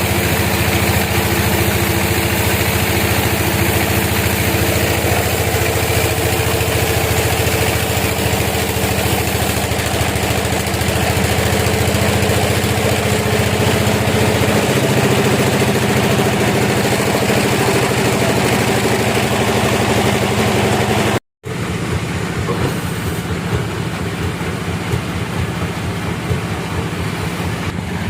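Sawmill machinery running with a steady engine hum. It cuts out for a moment about three quarters of the way through, then carries on a little quieter and more uneven.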